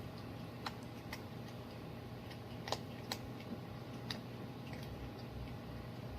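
A baby opossum crunching food: sharp, irregular clicks and crunches, about five distinct ones, over a faint steady room hum.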